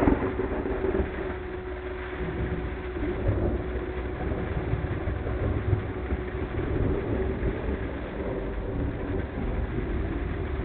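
Car driving through a thunderstorm, sped up to double speed: steady engine and road noise with a hiss over it. A sharp crack comes right at the start.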